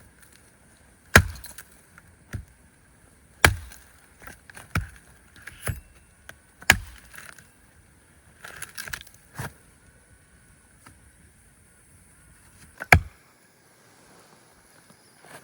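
A series of sharp, heavy blows, a second or a few seconds apart and the loudest near the end, with smaller knocks and crackles in between.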